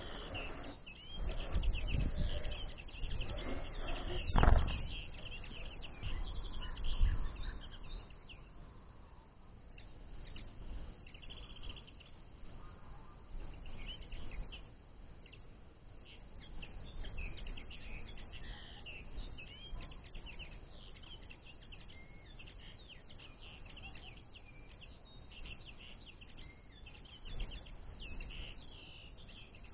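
Small songbirds chirping and twittering continuously in quick short notes. Several low thumps and rustles come in the first seven seconds, the loudest about four and a half seconds in.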